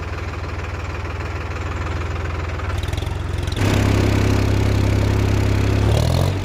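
Tractor engine idling steadily, getting louder about three and a half seconds in; near the end the pitch rises briefly before the sound cuts.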